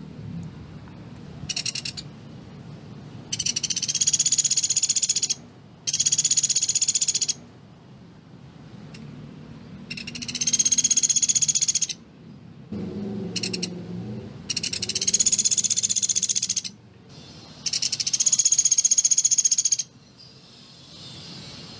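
Pelatuk beras (Sunda pygmy woodpecker) giving a run of high-pitched rapid trills, the close-set "tembakan" call, each about one to two seconds long with short pauses between. There are about seven trills, two of them brief.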